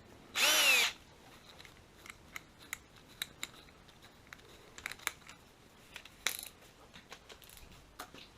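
A power drill runs in one short burst about half a second in, its motor pitch rising and then falling as the trigger is squeezed and let go. Scattered light clicks and taps follow.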